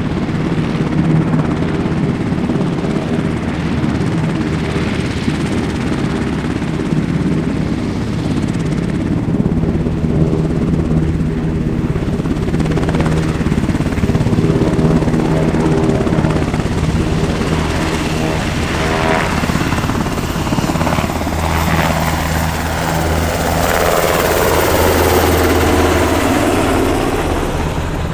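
Sikorsky UH-60 Black Hawk helicopter, four-bladed and twin-engined, running loud and steady, with a sweeping rise and fall in tone near the end.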